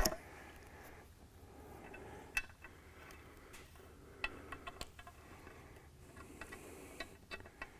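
Scattered light metallic clicks and taps of hand work on an exhaust manifold, its bolts and gasket being fitted to the engine block. They come singly, then in a short cluster about halfway through and again near the end.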